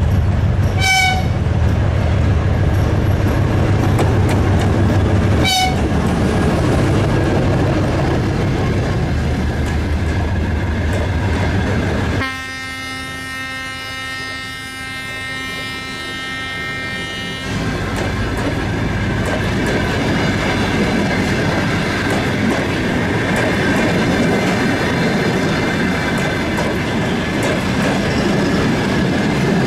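Soviet 2TE10-series diesel locomotive passing at the head of a passenger train, its engine drone loud, with two very short horn blips in the first six seconds. A held horn note sounds for about five seconds midway. The passenger coaches then roll past with wheel clatter and a thin squeal.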